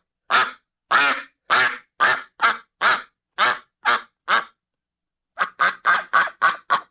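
A duck quacking in a series of short, harsh quacks, about two a second. After a pause of about a second, a faster run of quacks follows.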